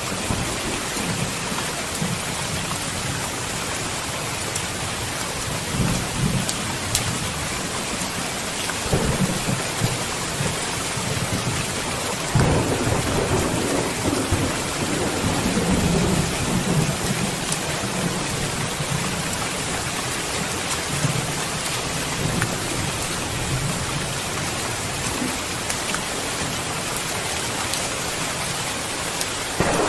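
Steady heavy rain with rolls of thunder, the longest from about twelve to seventeen seconds in.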